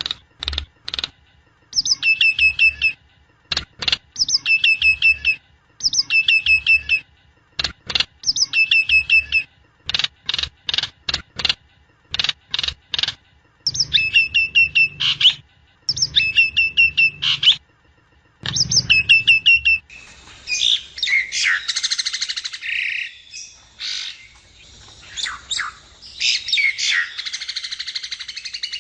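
A jalak nias (a myna) calling in a phrase repeated every second or two: a quick run of clicks, then a few clear whistled notes. About two-thirds of the way through, the calls change to a denser, harsher chattering.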